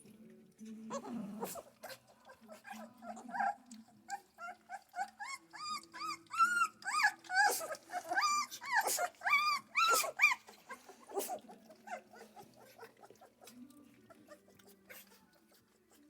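Central Asian Shepherd puppies whining and crying in a rapid run of short, high calls that rise and fall in pitch. The calls build up a few seconds in, are loudest in the middle and thin out near the end.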